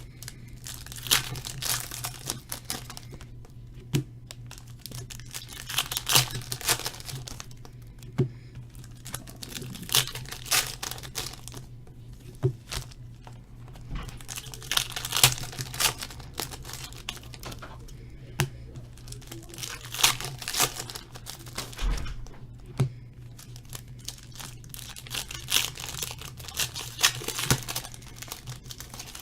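Foil wrappers of 2017 Panini Donruss Optic baseball card packs being torn open and crinkled by hand, in repeated bursts every few seconds, over a steady low hum.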